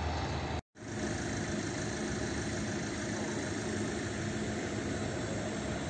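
Steady low mechanical rumble of a vintage train's carriages rolling slowly over a level crossing, with a car engine idling close by. The sound cuts out completely for a split second just under a second in.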